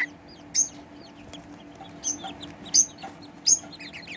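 Young Serama chicks peeping: four sharp, high peeps about a second apart, with fainter peeps between.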